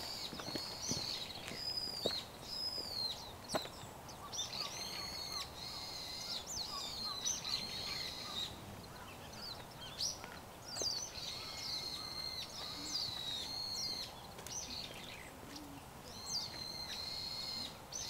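Wild songbirds calling: high, shrill, arching calls repeated over and over, with a quick run of short lower notes about four to seven seconds in.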